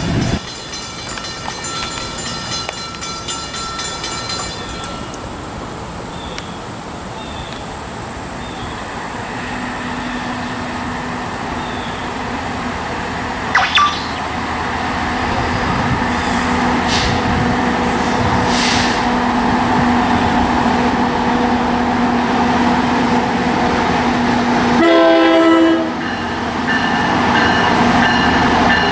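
NJ Transit PL42AC diesel locomotive hauling a commuter train as it approaches, its engine and wheel noise growing steadily louder with a steady hum and a high whine. A short sharp burst comes about halfway through, and the locomotive's horn blasts once for about a second near the end.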